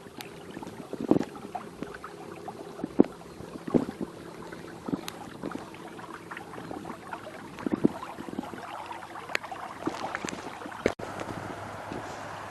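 Irregular knocks and splashes of a small boat on lake water, with wind in the background. The sound drops out briefly near the end.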